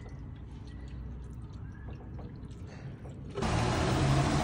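Faint pouring of coolant from a plastic jug into a radiator filler neck. A little over three seconds in, this gives way abruptly to the HQ Holden Kingswood's red inline-six engine running, much louder, with a steady low hum.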